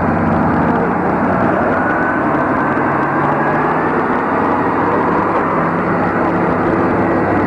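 Demolition derby car engines running steadily and loudly: a continuous low rumble whose pitch wavers slightly.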